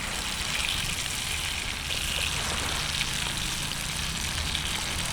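Lamb sizzling over a bonfire: a steady hiss with small crackles, over a low rumble.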